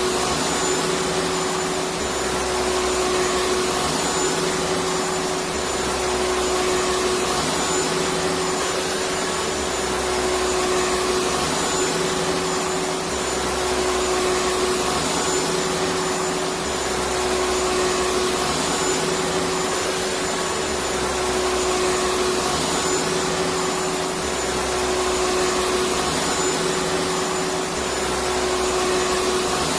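Electric vacuum cleaner running continuously: a steady whining hiss with one constant tone. Underneath, the low motor hum shifts up and down in pitch every two to three seconds.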